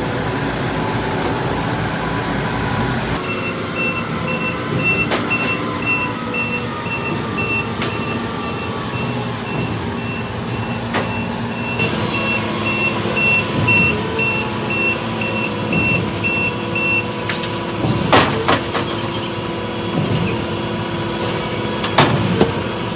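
Concrete mixer truck's diesel engine running while its reversing alarm beeps in an even high-pitched series for about fourteen seconds. A short loud burst of noise follows near the end, and a sharp knock comes just before the end.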